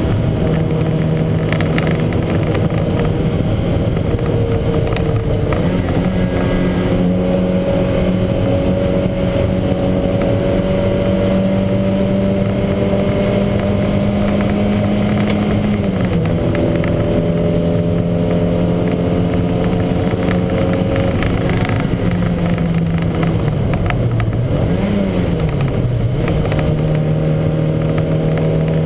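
Lancia Montecarlo's four-cylinder engine running hard under racing load, its note holding high and climbing slowly, dropping sharply about halfway through as a gear changes, then dipping and rising again near the end. The engine has a misfire that the driver calls huge.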